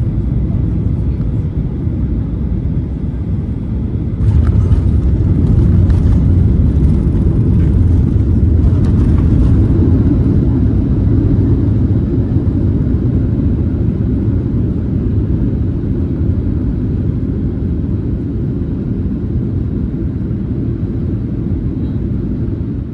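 Steady low rumble, swelling louder from about four seconds in and easing off after about ten seconds.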